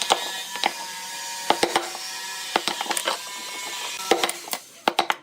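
Woodturning on a lathe: a steady machine hum with irregular sharp clicks and knocks of tool and wood. The sound drops quieter near the end.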